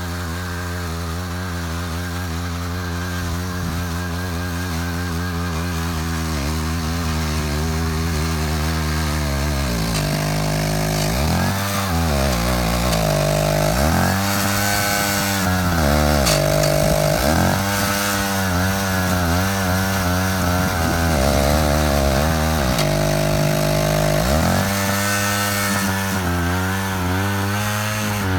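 Small engine of a walk-behind power tiller running steadily at first, then repeatedly bogging down in pitch and recovering, about every two seconds, as the ditching attachment takes load while cutting a furrow.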